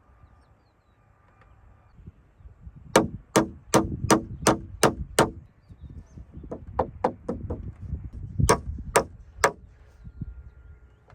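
Hammer blows on timber framing: a run of about seven hard strikes, then a quicker run of lighter taps, then three more hard strikes near the end.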